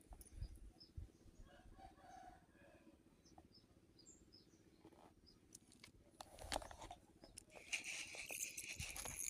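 Faint croaking 'ngek ngok' calls of a baung catfish (Hemibagrus) out of the water, a sound typical of the fish. A rustling, crunching noise comes in near the end.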